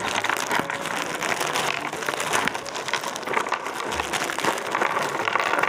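Packaging crinkling and rustling as kit pieces are handled and sorted, a continuous irregular crackle.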